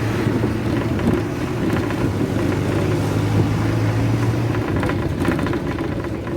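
Safari van engine running with a steady low hum and rumble; the low hum drops away after about four and a half seconds while the rumble goes on.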